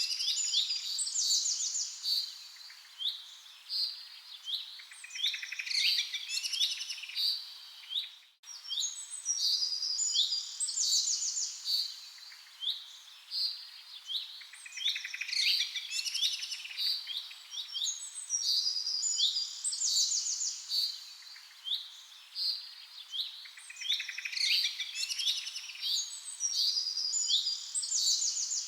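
Songbirds chirping and singing, several calls overlapping in quick, repeated trills and chirps. The sound cuts out for an instant about eight seconds in.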